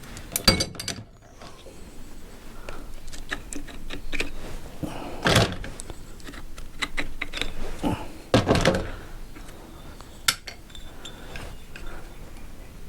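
Scattered clicks, clinks and knocks of new clutch parts being handled on a workbench, with louder handling knocks about five and eight seconds in.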